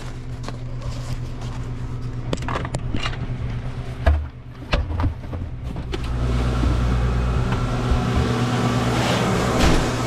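A motor vehicle's engine running with a steady low hum, a few knocks about four seconds in, and the sound growing louder and fuller about six seconds in.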